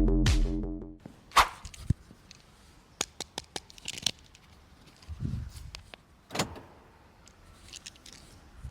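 Scattered light clicks and knocks with a soft thud about five seconds in, as from a car's doors and fittings being handled, after electronic music fades out in the first second.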